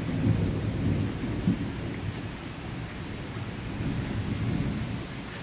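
Steady rain falling on dense leafy shrubs, an even hiss, with a low rumble underneath that is strongest in the first two seconds and fades toward the end.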